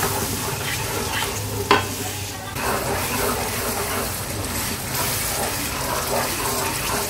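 Spice paste frying in hot oil in a pot, sizzling steadily while a spatula stirs and scrapes through it, with a couple of light taps of the spatula in the first two seconds.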